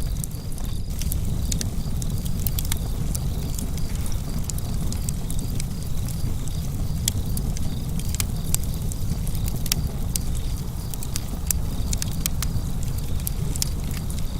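Fire burning in a fireplace and crackling, with frequent sharp pops and snaps over a steady low rumble.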